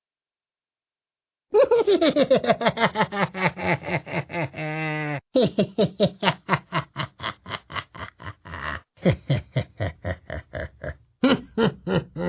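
A man laughing mockingly in a hoarse voice. Rapid "ha-ha-ha" pulses, about five a second, fall in pitch across each run. The laugh comes in three runs with short breaths between them, and starts about a second and a half in.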